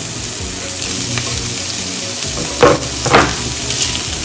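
Bacon and chopped sausage sizzling steadily in a frying pan, with two loud spatula strokes against the pan about two and a half and three seconds in as the meat is stirred.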